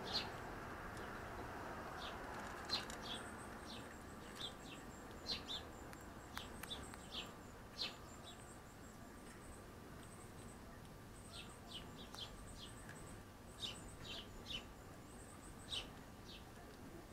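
Small birds chirping: many short, sharp, high chirps at irregular intervals, over a thin, very high, pulsing trill.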